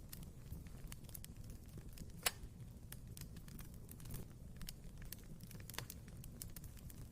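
Wood fire in a fireplace crackling, with irregular snaps and pops over a low steady rumble of the flames; one pop a little over two seconds in is louder than the rest.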